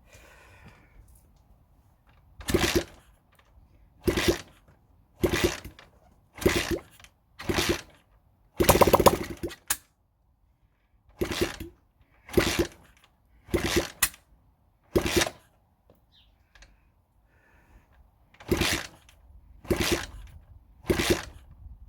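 Honda CB100N single-cylinder four-stroke being kick-started again and again without starting, each kick a short burst of the engine turning over, about one a second in two runs with a pause between. One longer, louder turnover comes about nine seconds in.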